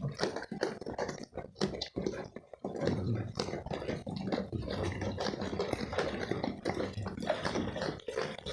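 Goats chewing and crunching wheat: a rapid, irregular run of crisp crunching clicks that thickens into a continuous crackle about three seconds in.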